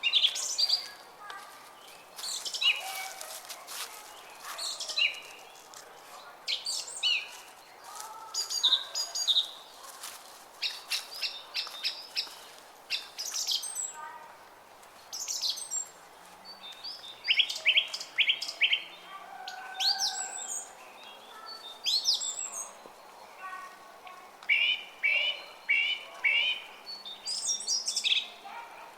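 Several small songbirds chirping and singing in short phrases, some in quick runs of repeated notes. Beneath them is a faint steady rush from a small stream.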